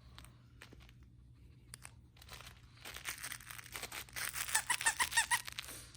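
A small dog chewing and worrying a squeaky toy: crinkly rustling builds up, then the squeaker squeaks rapidly several times a second for about a second near the end.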